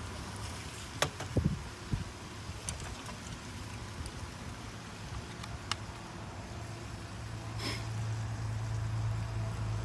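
Sparse pops and crackles from a wood campfire, with a few low knocks about a second in. A low steady rumble builds over the last couple of seconds.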